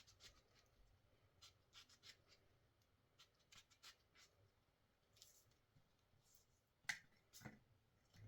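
Near silence with faint scattered clicks and rubbing sounds, and a sharper click about seven seconds in.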